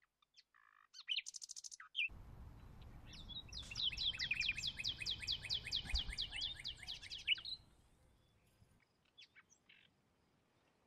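Songbird calling: a few scattered high chirps, then a rapid run of sharp, downward-sweeping chirps at about five a second for some four seconds in the middle, with a low noise underneath.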